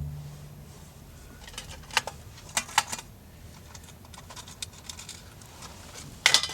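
Light clicks and rattles of small hard objects, a cluster about two seconds in and a sharper one near the end.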